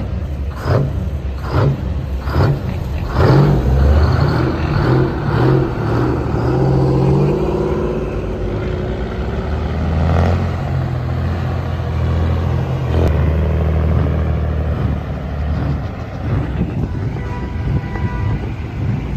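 A heavy vehicle's engine running under load, its low tone rising and falling. In the first few seconds it is cut by sharp knocks about one a second.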